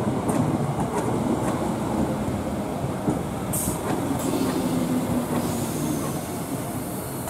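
Northern Rail passenger multiple unit rolling past: a steady rumble of wheels on track, with clicks as the wheels cross rail joints and a brief wheel squeal about halfway through.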